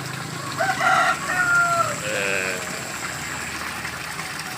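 A rooster crowing once, a cock-a-doodle-doo whose last syllable is held long, followed by a shorter, lower call, over a steady hiss of running water.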